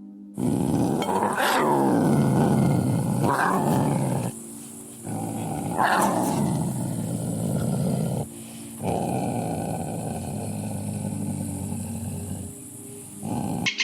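A large animal growling in long, low calls broken by short pauses, with a sharper, louder cry about a second and a half in and again about six seconds in.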